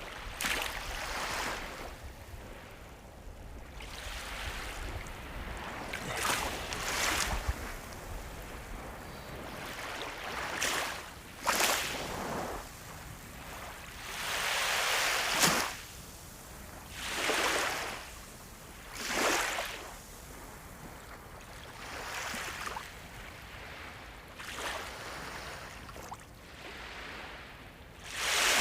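Sea waves washing in one after another, each a hiss that swells and falls away, with the louder ones through the middle.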